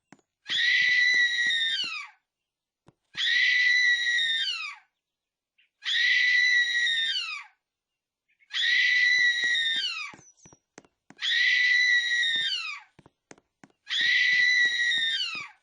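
A shrill, high-pitched scream repeated about six times at an even pace. Each scream lasts about a second and a half and drops in pitch at its end.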